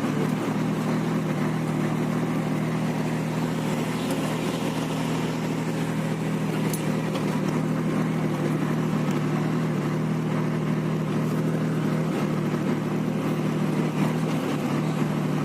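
Scania truck's diesel engine running at a steady, unchanging speed, a constant low hum with no revving.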